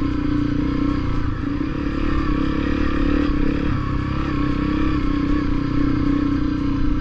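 Honda CRF250L's single-cylinder four-stroke engine running at a steady, nearly constant pitch as the trail bike is ridden along a dirt trail.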